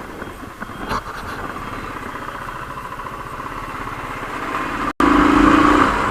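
Royal Enfield Thunderbird 350's single-cylinder engine running steadily. The sound cuts out abruptly about five seconds in and comes back louder.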